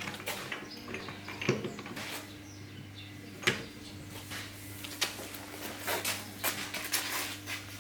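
Irregular metal clinks and knocks of tools and parts being handled, over a steady low hum.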